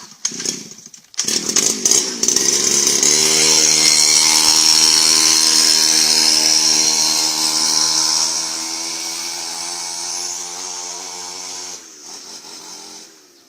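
A small motor or engine runs loudly with a steady hum and a hiss. It settles into an even pitch about three seconds in, eases slightly, then drops away near the end.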